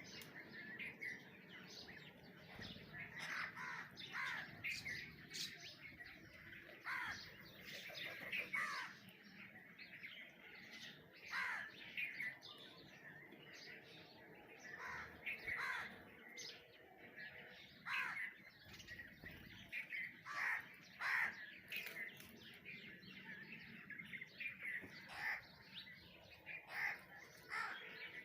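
Birds calling over and over: many short calls, most sliding down in pitch, in irregular runs.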